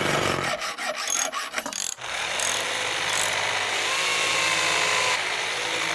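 Plastic Hot Wheels track and die-cast toy cars clattering: a quick run of rattly clicks, then a steady rushing rattle that eases about five seconds in.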